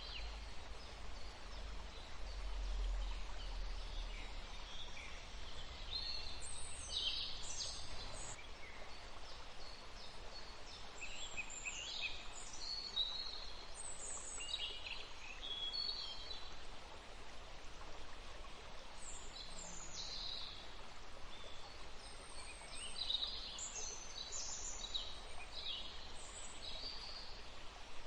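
Small songbirds chirping and calling in short, high-pitched bursts, several at once in places, over a steady background hiss. A low rumble sits under the first several seconds.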